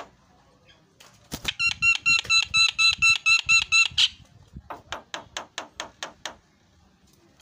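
Javan myna (jalak kebo) calling: a loud, rapid run of about a dozen repeated ringing notes starting about a second in, then a quicker series of short, sharp notes.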